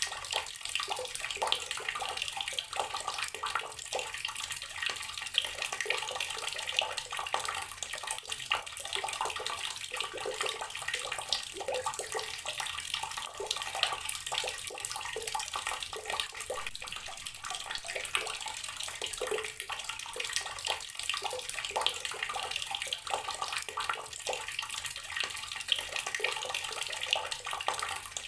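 Water tap running steadily, a stream of water splashing into a basin or tub with a continuous bright, spattering hiss.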